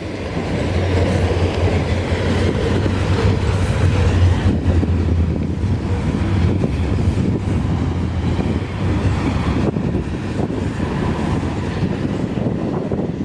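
Train passing: a steady low engine drone that fades about two-thirds of the way through, over continuous wheel-on-rail rumble with scattered clacks.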